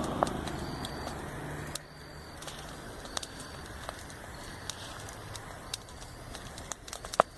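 Campfire crackling, with scattered sharp pops over a steady hiss and one loud pop near the end. A passing vehicle's engine hum fades away in the first two seconds.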